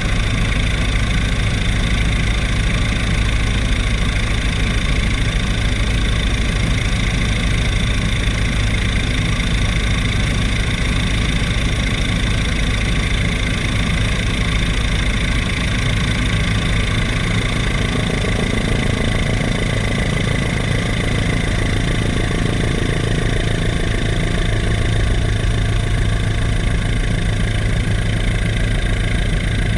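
Tour helicopter in flight: a loud, steady drone of engine and rotor, with a constant whine on top.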